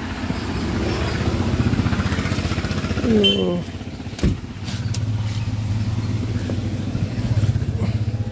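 Car engine idling with a steady low rumble, a sharp thump about four seconds in.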